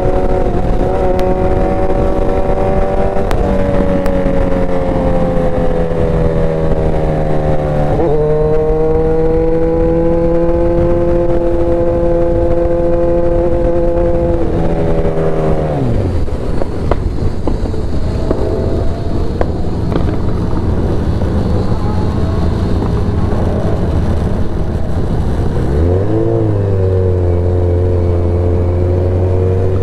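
Motorcycle engine running while riding, its pitch dropping and climbing again with gear changes, over a steady rush of wind noise. About halfway through the engine note falls away as the bike slows, then it picks up again near the end.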